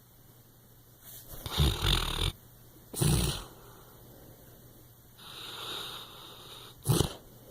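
English chocolate Labrador snoring in its sleep: two loud snores in the first half, a softer drawn-out breath, then a short sharp snore near the end.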